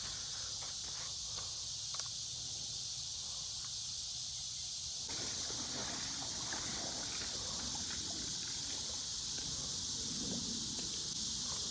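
Insect chorus: a steady high-pitched shrill that holds without a break, with a faint low rumble beneath.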